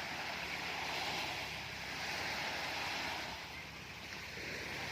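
Surf washing on a beach, a steady rush of waves that swells and eases a little.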